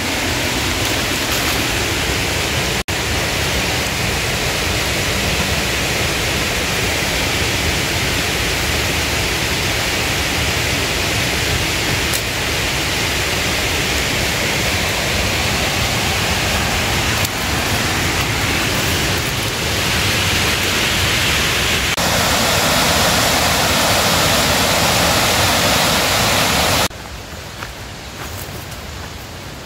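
Heavy rain falling as a steady, dense hiss. It gets louder a little past the two-thirds mark, then drops sharply to a much softer patter near the end.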